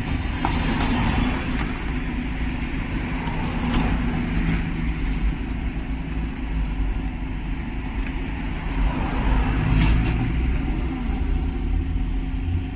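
A steady engine hum, with a few light clicks and knocks over it.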